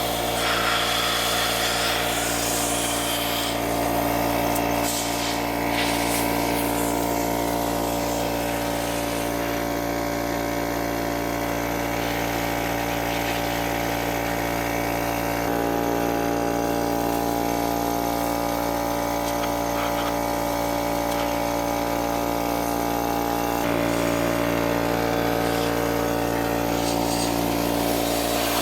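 A machine's motor running steadily, its hum shifting slightly in pitch about halfway through and again near the end.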